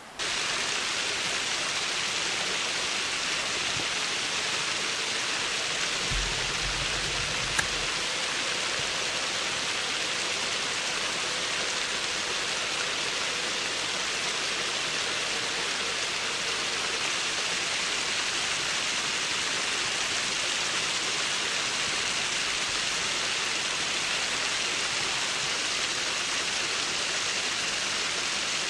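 Steady rush of river water pouring over concrete blocks, a continuous even hiss, with a brief low bump about six seconds in.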